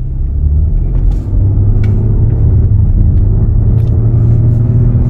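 Audi 3.0T supercharged V6 engine and car heard from inside the cabin, pulling away from a near stop and gathering speed with a steady low drone. It sounds normal, with no noise from the supercharger drive now that the belt tensioner and idler pulley have been replaced.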